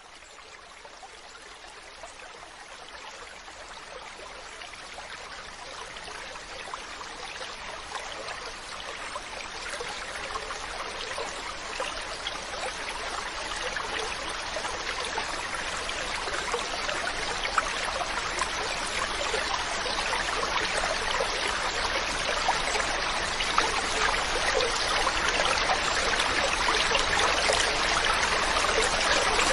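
Mountain stream's running water, a steady rushing and splashing that fades in gradually from quiet to full level.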